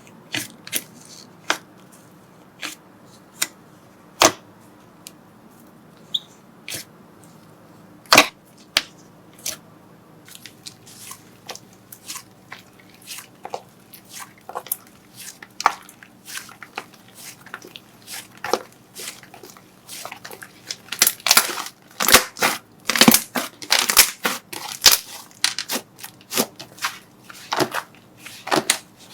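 Slime being squeezed and worked by hand, giving crisp clicks and pops. Sparse at first, the pops grow denser and louder over the last third.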